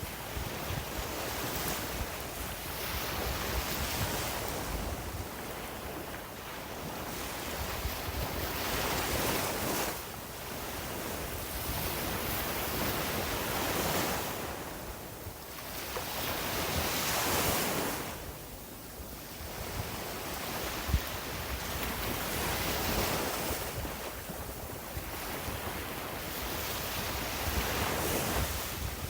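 Sea waves breaking and washing on a beach, swelling and easing every few seconds, with low wind rumble on the microphone.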